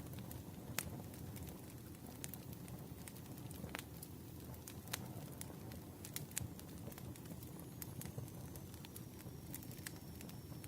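Campfire burning: a steady low rumble of flames with sharp, irregular pops and snaps from the burning wood. A faint thin high whistle comes in near the end.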